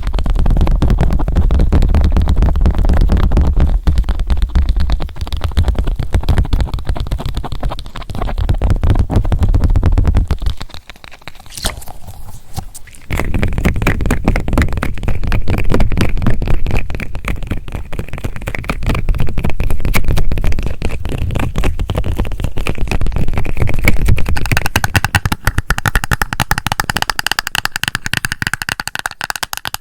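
A squishy toy being squeezed and kneaded right at the microphone, a dense crackling and scraping with soft low handling rumble, briefly quieter a little before halfway. Near the end the sound changes to brighter tapping and scratching on a makeup blush compact.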